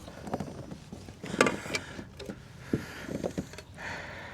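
Irregular knocks and clicks of a landed smallmouth bass and gear being handled in a kayak, the loudest about a second and a half in.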